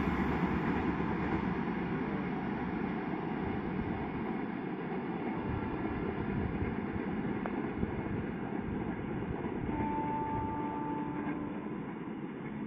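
Rumble and wheel noise of a train that has just passed on the main line, fading steadily as it runs away into the distance. A faint short tone is heard about ten seconds in.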